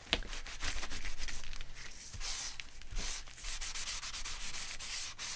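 Paper being rubbed or scraped with quick, repeated back-and-forth strokes, a dry scratchy rasping.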